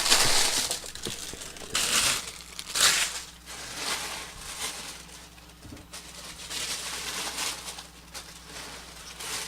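Packaging of a Funko Pop mystery box crinkling and being crushed by hand as it is unwrapped, in irregular bursts of rustling that come louder about two and three seconds in and again later on.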